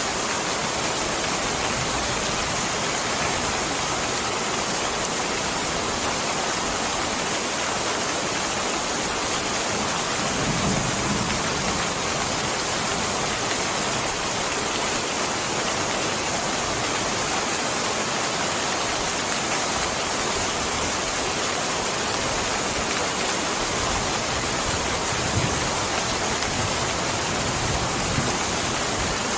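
Steady rain falling, an even hiss with no break, with a brief low swell about ten seconds in.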